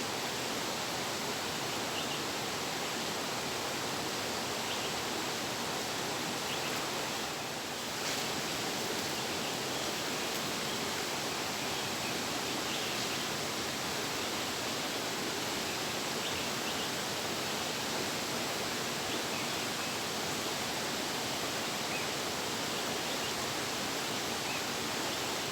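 Steady rush of flowing water from a stream or waterfall, dipping briefly about seven seconds in.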